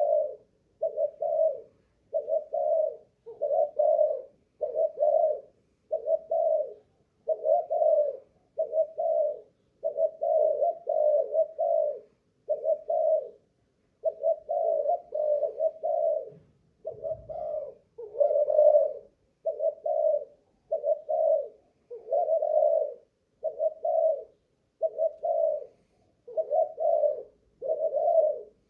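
Spotted dove (Malaysian-strain cu gáy) cooing over and over in an unbroken run, about one low coo phrase a second: a decoy bird calling persistently, showing its staying power. A brief faint low thump about seventeen seconds in.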